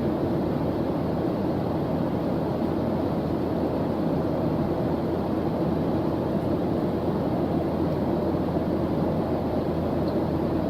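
Steady white-noise study track: an even, low rushing hiss that never changes.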